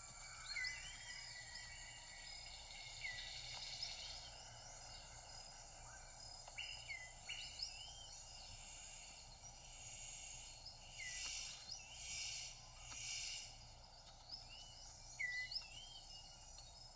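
Rainforest ambience: a steady high insect drone, with short upswept bird whistles repeated every few seconds and a pulsing hiss about two thirds of the way in.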